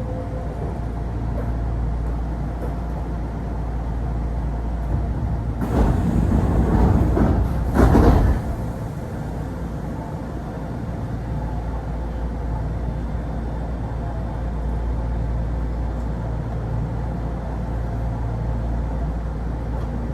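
Kintetsu commuter train car standing at a station: a steady low hum from its onboard equipment. About six seconds in, a loud rushing noise rises and lasts about two and a half seconds before cutting off.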